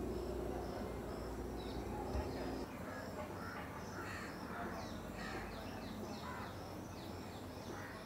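Wild birds calling over a low steady background hum: a regular series of short, high chirps about twice a second, then, from about three seconds in, a busier mix of louder calls, some of them dropping in pitch.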